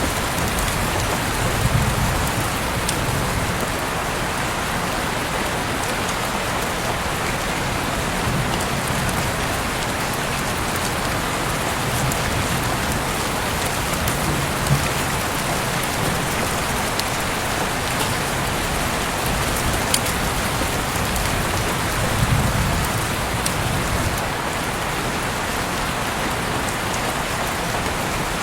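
Heavy rain pouring down steadily, a dense even hiss with scattered sharper drops striking close by and a few brief low swells.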